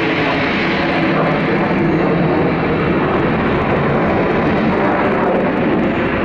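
Embraer E-190 airliner departing, its twin GE CF34 turbofan jet engines giving a steady, loud jet noise.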